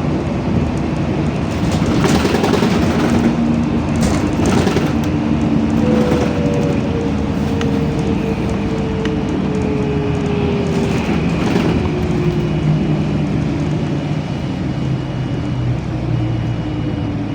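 LiAZ-5292.65 city bus running on the road, heard from inside the passenger cabin: engine drone and road rumble. Partway through there is a slowly falling whine.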